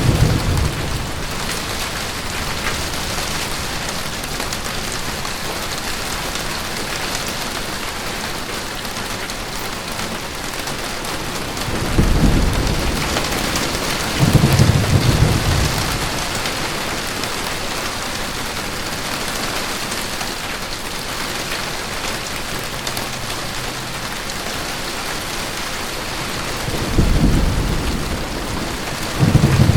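Steady heavy rain falling on a van's roof, with low rolls of thunder about twelve and fourteen seconds in, and twice more near the end.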